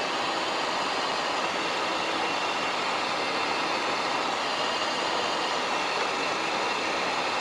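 Steady cockpit noise of a Cessna Citation XLS business jet in the climb: a constant rush of airflow and twin turbofan engine noise, with a faint steady whine on top.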